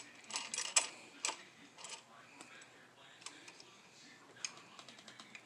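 Irregular small metal clicks and taps of a small hand wrench working a screw and T-nut while the 3D printer's metal handle is fastened down, a few in quick succession near the start, then sparser.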